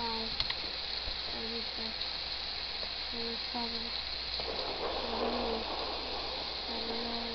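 Steady hiss of rain from a forest thunderstorm ambience track, with short low tones repeating irregularly about every second and a brief rush of noise about five seconds in.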